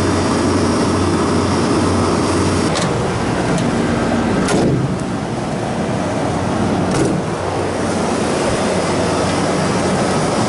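Refrigeration condensing unit running steadily, its compressor freshly fitted with a new valve plate. A low hum drops out about a quarter of the way in, and a few sharp knocks sound near the middle and about two-thirds of the way through.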